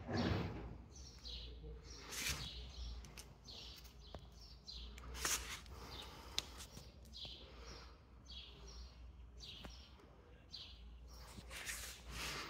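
Birds chirping in short repeated calls over a steady low background rumble, with a few brief, louder noisy swishes about two seconds in, about five seconds in and near the end.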